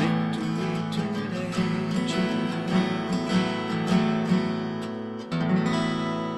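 Acoustic guitar in standard tuning, strummed with the open strings ringing while a melody moves on the third and fourth strings. A last strum comes a little past five seconds in and is left to ring and fade.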